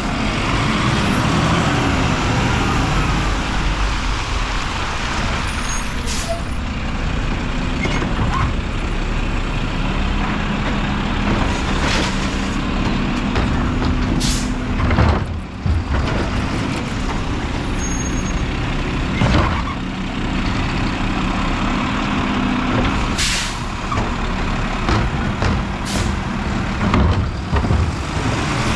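Mack LR garbage truck's diesel engine running with a steady drone, broken several times by short, sharp air-brake hisses.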